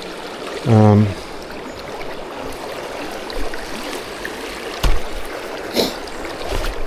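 River water flowing steadily around a wading angler. A short hummed voice sound comes about a second in, and two brief knocks come later.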